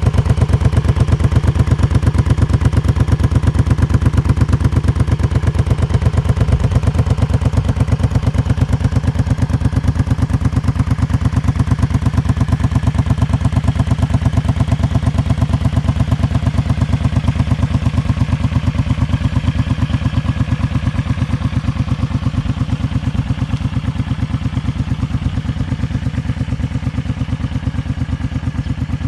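Honda Magna 250's V-twin engine idling steadily, its exhaust pulsing through stock mufflers drilled with eight 5 mm holes each, which gives a Supertrapp-like exhaust note.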